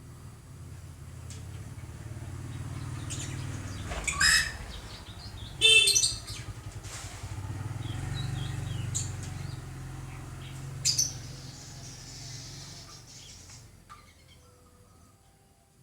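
Birds calling in a few short, high, bright bursts: the loudest about four and six seconds in, weaker ones around nine and eleven seconds. A low steady rumble runs underneath.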